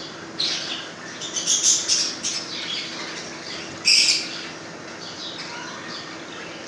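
Pet Australian parrots squawking in a run of harsh, scratchy calls, with the loudest single squawk about four seconds in, over a faint steady hum.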